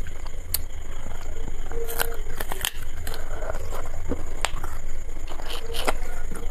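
Close-miked chewing of chicken biryani and chicken on the bone, with sharp wet mouth clicks and smacks scattered through it over a steady low hum.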